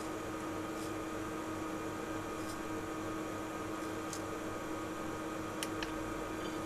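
Steady hum and hiss of a cooling fan on bench electronics, with a constant tone under it and a few faint clicks.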